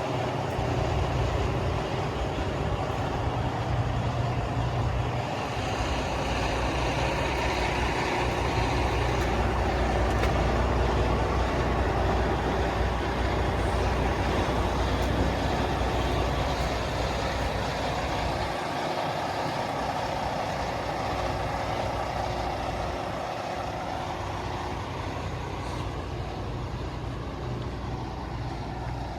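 Heavy diesel truck engine, the Western Star's Detroit DD15, idling with a steady low rumble.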